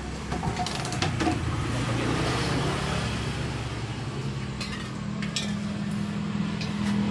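Metal parts and hand tools clinking and knocking against a motorcycle engine during a kickstarter repair, a few separate clinks, over a steady engine hum.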